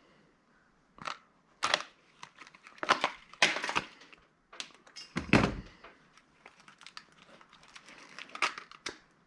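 Plastic and metal parts of a handheld scanner being pulled apart and handled: an irregular run of clacks, cracks and scrapes, with one heavier thud about five seconds in.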